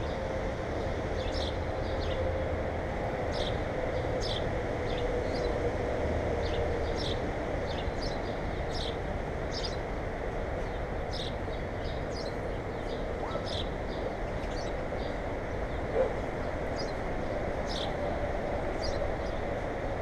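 Birds chirping in short high notes, roughly one a second, over a steady low rumble of outdoor background noise, with a single sharp knock near the end.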